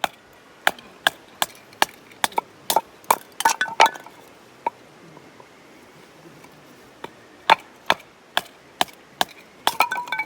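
Wood cracking and splitting as kindling is broken up to start a campfire: sharp cracks about two a second, a pause of about two seconds near the middle, then another run of cracks.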